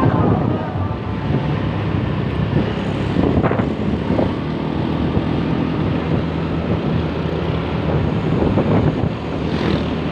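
Vehicle engine and road noise at speed in traffic on a highway, with wind buffeting the microphone and a couple of brief louder swells from passing traffic.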